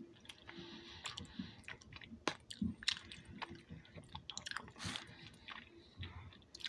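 A person chewing macaroni and cheese close to the microphone: irregular mouth clicks and smacks.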